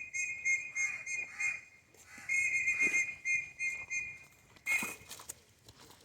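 A high, steady whistling tone that comes and goes in spells of about a second, with a short noisy rustle near the end.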